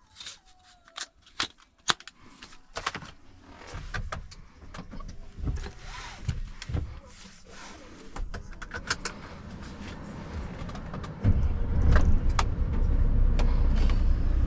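Sharp clicks and knocks inside a Mercedes truck cab, with a low engine rumble that builds, then jumps up suddenly about eleven seconds in and runs on steadily.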